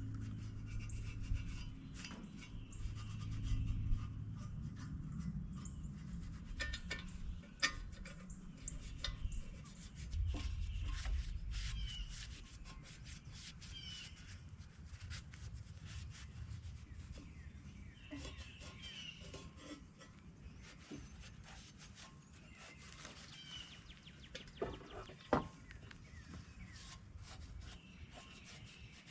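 Hand work on metal tractor parts: rubbing and scraping with scattered light clicks and knocks, and one sharper knock near the end.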